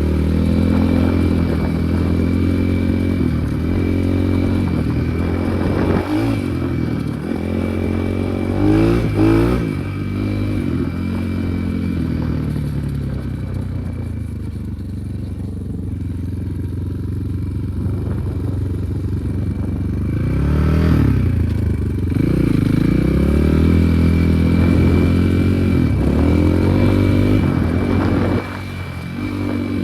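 Enduro motorcycle engine running as the bike is ridden, its revs rising and falling with the throttle. There are sharper bursts of revving about nine seconds in and again around twenty-one seconds, and a quieter stretch in between.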